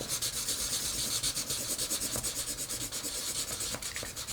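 Rapid, even back-and-forth scribbling strokes on paper, as in colouring in.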